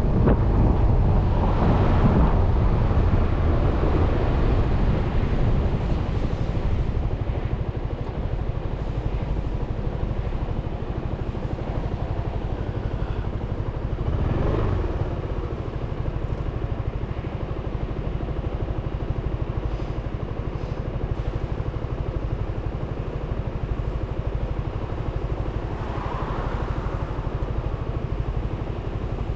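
Suzuki Burgman 400 scooter's single-cylinder engine running steadily while riding, louder for the first few seconds and then settling, with a brief swell about halfway through.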